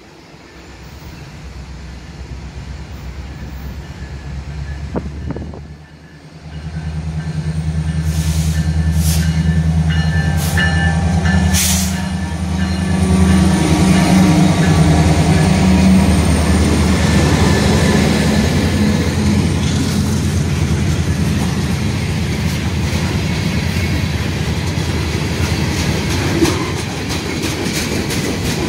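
CN freight train passing close by. Its diesel locomotives approach and go by with a deep engine rumble that grows loud about six seconds in, then the tank cars roll past with a rapid clatter of wheels over the rail joints.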